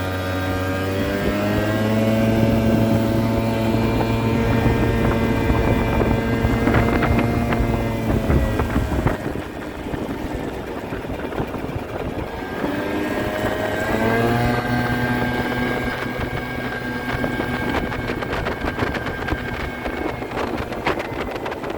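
Kymco Super Fever ZX 50cc two-stroke scooter engine accelerating and holding a steady speed, the engine note dropping away about nine seconds in, then accelerating and holding steady again, with wind on the microphone. The engine is jetted with an 86 main jet and runs well.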